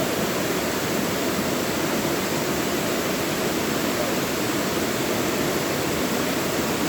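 Mountain valley stream rushing over rocks, a steady, even flow of water.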